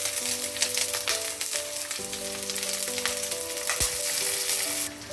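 Sliced onions sizzling and crackling in hot olive oil in a pan, with one low knock about four seconds in. The sizzle cuts off suddenly near the end, over background music of held notes.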